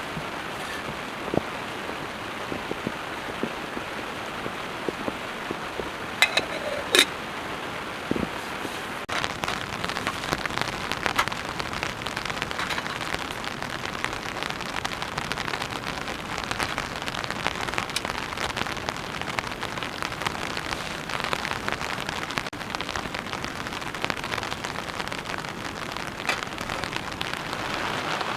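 Steady rain pattering on a tarp shelter, growing heavier about a third of the way in. A few sharp clinks sound a little before that.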